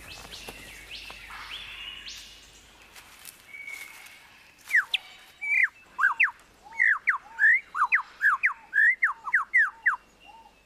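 Superb lyrebird singing. It opens with faint rising whistled notes among other forest birdsong. From about halfway through comes a loud, rapid run of sharp whistled notes sweeping up and down, about three a second.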